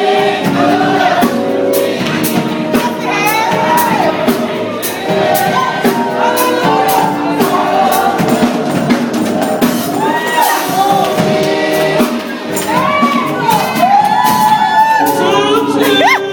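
Gospel choir singing with percussion such as clapping or tambourine beating through it, with a few voices shouting over the music.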